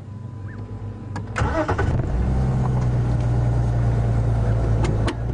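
Game-drive vehicle's engine, which swells up about a second and a half in and then runs steadily as the vehicle sets off.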